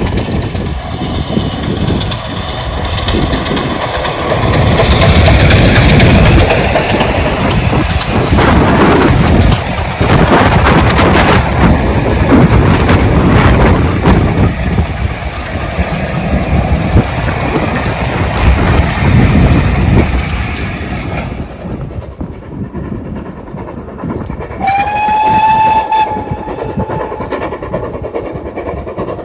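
A heritage steam train running past close by, its wheels clattering and rumbling over the track, until the noise drops away fairly suddenly. Near the end a locomotive whistle sounds once, a single steady note about a second and a half long that starts with a slight upward glide.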